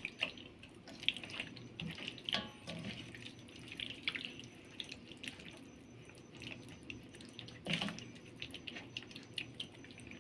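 Hands working a thick, wet spice paste into a raw whole chicken: scattered soft wet squelches and sticky clicks, with one slightly louder squelch about three-quarters of the way through.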